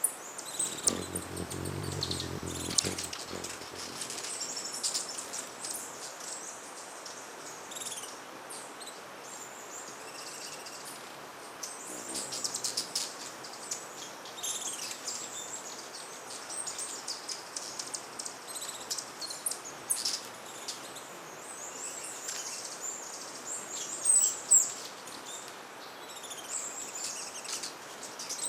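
Hummingbirds at busy feeders: a constant scatter of short, high chips and twitters. A low hum sounds for the first few seconds, and a few louder chips come near the end.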